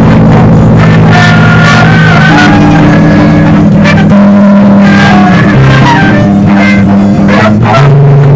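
Loud band music: long held low notes under a plucked guitar and shorter melodic lines, with frequent percussive hits.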